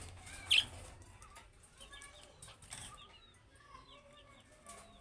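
Budgerigars chirping and chattering in many short quick calls, with one louder chirp about half a second in and brief wing flutters.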